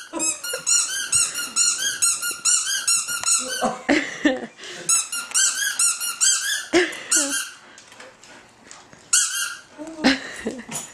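Rubber squeaky dog toy squeezed over and over, about four or five squeaks a second, in three runs with short breaks between them.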